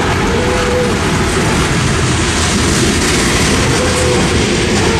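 Freight cars of a Norfolk Southern mixed freight train rolling past, a steady, loud rumble.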